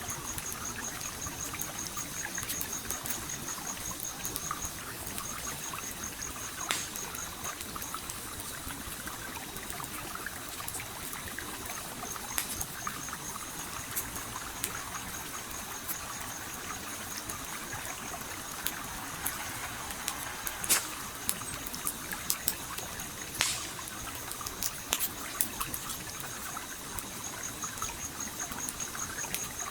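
A stream flowing and trickling steadily, with a campfire crackling over it in scattered sharp pops, a few louder ones among them. A high, fast-pulsing chirp comes and goes.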